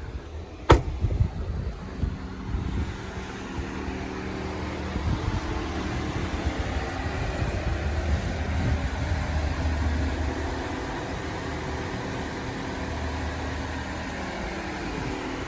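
2018 Honda Accord's 2.0 L four-cylinder engine idling steadily, with one sharp knock about a second in and a swell of noise through the middle.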